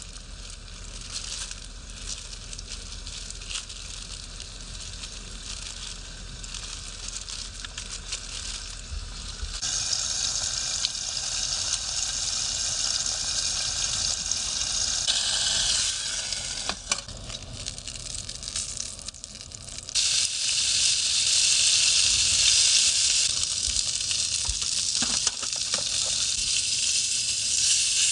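Food sizzling in a frying pan: a steady crackling hiss that grows louder about ten seconds in, dips briefly, then gets louder still about twenty seconds in.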